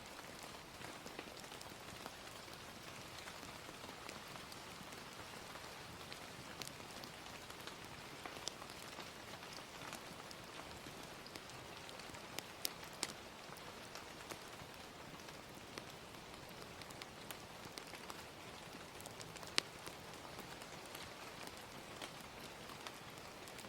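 Gentle rain and a crackling fire: a steady hiss of rain with scattered sharp pops, the loudest about twenty seconds in.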